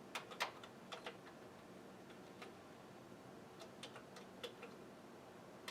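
Faint, irregular keystroke clicks on a Commodore 64 keyboard, about a dozen in all, as a LOAD"*",8,1 command is typed to load a game from the 1541 disk drive.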